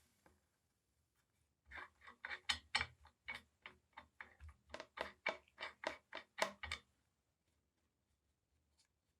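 Rapid run of about twenty short, sharp hand-tool strokes, roughly four a second, lasting about five seconds and then stopping.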